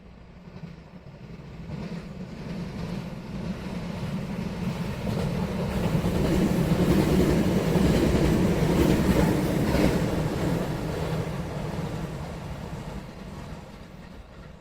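A train passing, growing louder to a peak about seven to ten seconds in, then fading away.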